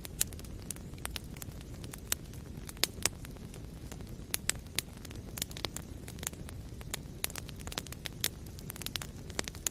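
Wood fire burning in a fireplace: a steady low rumble of the flames with frequent irregular crackles and sharp pops, a few louder snaps among them.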